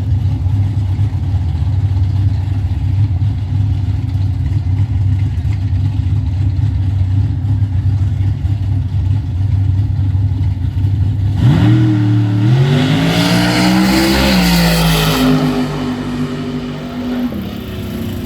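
A drag-race car's engine running steadily at a low rumble, then about eleven seconds in it revs hard and launches, the pitch climbing. The pitch drops once, like a gear change, about fifteen seconds in, and the engine carries on more faintly as the car pulls away.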